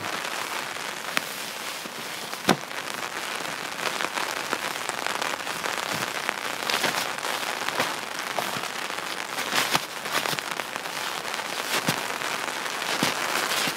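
Steady rain falling, an even hiss dotted with sharper drop ticks. One tick about two and a half seconds in is the loudest.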